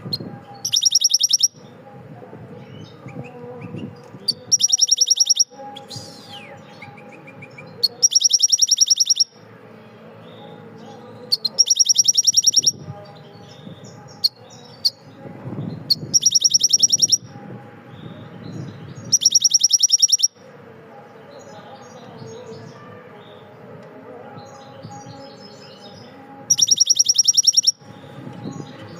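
A bird giving a loud, very rapid high-pitched trill about a second long, seven times at irregular gaps, with fainter chirps and a low background rumble between the trills.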